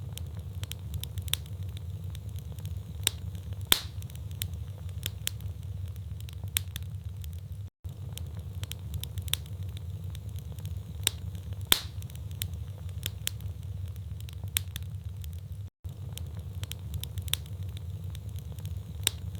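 Wood fire burning in a fireplace: logs crackling with irregular sharp pops over a steady low rumble of flame. The sound cuts out for an instant twice.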